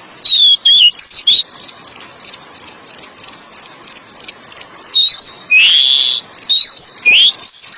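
Oriental magpie-robin (kacer) singing short phrases of loud whistled notes that slide up and down, over a cricket chirping steadily about three or four times a second.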